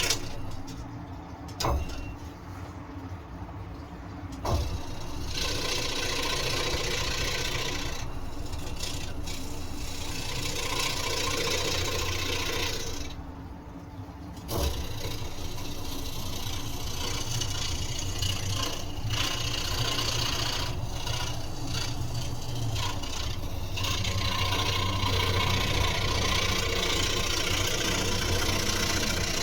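Electric scroll saw running steadily, its blade cutting through wood. The cutting eases twice, for a few seconds near the start and again about halfway through, while the saw keeps running, and there are a few sharp clicks.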